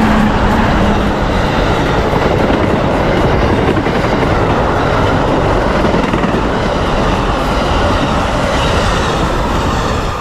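Amtrak passenger train headed by two Siemens ALC-42 Charger diesel-electric locomotives passing close by at speed: a loud, steady rush and rumble of wheels on rail.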